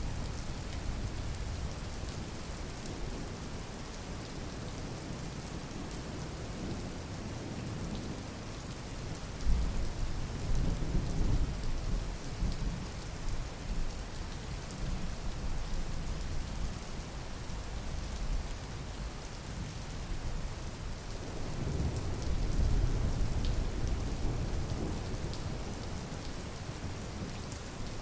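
Steady rain with two low rolls of thunder, the first starting about nine or ten seconds in and the second a little after twenty seconds.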